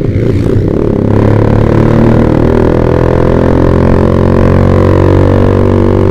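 Yamaha Vixion's single-cylinder engine droning through a Proliner TR1 R aftermarket exhaust while riding. It gets louder about a second in as the throttle opens, then holds a steady drone.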